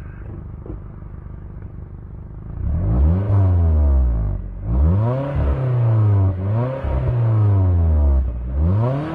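Suzuki Kizashi's 2.4-litre four-cylinder through a modified exhaust, with the mid muffler deleted and a flap valve ahead of the rear mufflers. It idles steadily for a few seconds, then is revved several times, the pitch rising and falling away with each rev.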